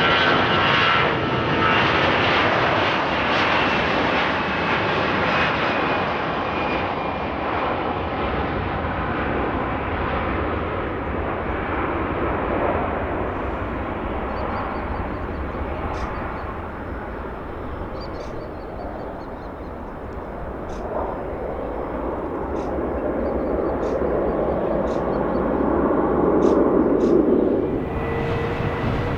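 Aircraft engines running loud, with a whine that falls slightly in pitch at first as the aircraft passes, easing off midway, then swelling again before cutting off abruptly near the end.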